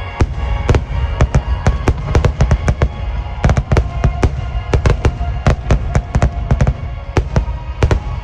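Dense barrage of fireworks shells bursting, several sharp bangs a second over a deep continuous rumble, with music playing underneath.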